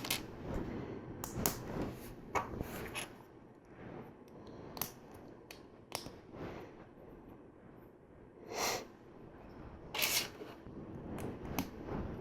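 Plastic LEGO pieces clicking and knocking as they are handled and pressed together: scattered sharp clicks, with two short rustling bursts about two thirds of the way through.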